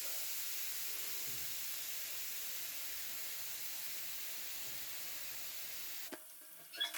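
Acid fizzing steadily as it dissolves limescale off a cracked water-heater heating element, a fine hiss that slowly weakens and cuts off suddenly about six seconds in. A few light clicks follow near the end.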